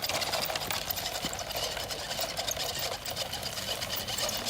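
Electric motor and plastic gearbox of a toy Land Cruiser monster truck whirring steadily as it drives, with a fine rapid crackle of its wheels over the ground.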